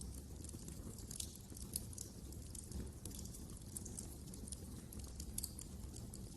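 Wood fire burning in a fireplace: a low steady rumble with irregular crackles and small snaps, a few louder pops scattered through.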